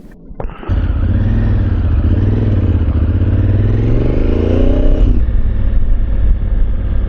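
Motorcycle engine pulling hard, its note rising for a few seconds and then dropping at a gear change about five seconds in, before running on steadily over a rushing noise.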